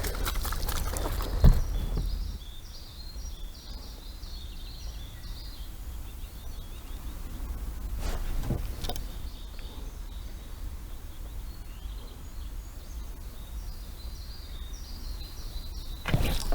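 Quiet outdoor ambience on the water: a steady low rumble with high, rapidly repeated chirping notes, and a few short knocks, one about a second and a half in, one near the middle and one at the end.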